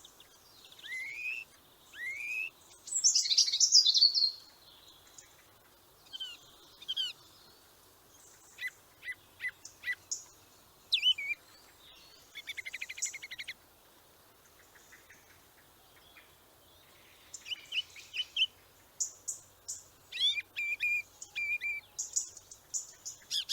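Birds calling and chirping: rising whistled notes, short sharp chirps and a fast rattling trill about halfway through, with the calls coming thick and fast near the end.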